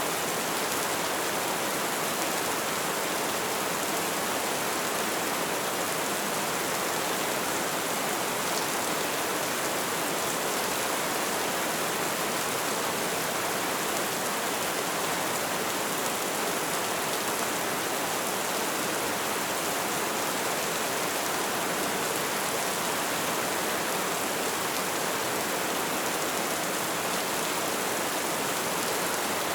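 Steady light rain falling, an even hiss of drops with no distinct pattern or change.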